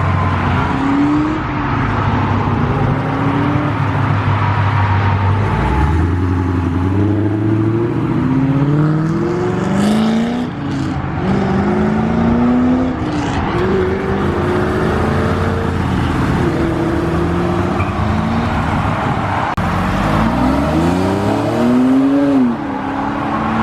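Car engines accelerating away one after another, each revving up in rising sweeps and dropping back at the gear changes. A hard rev climbs and falls near the end.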